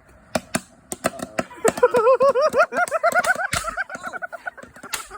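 Fireworks burning inside a vacuum cleaner: sharp crackling pops throughout, joined about a second and a half in by a warbling whistle that rises and falls about four times a second.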